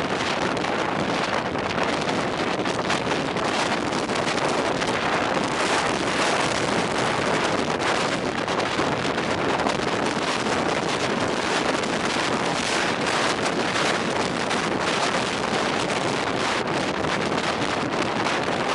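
Strong gale-force wind buffeting the microphone as a steady, loud rushing roar.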